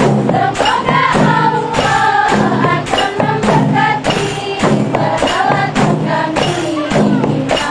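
Rebana group playing: frame drums and jingles beating a steady rhythm under group singing.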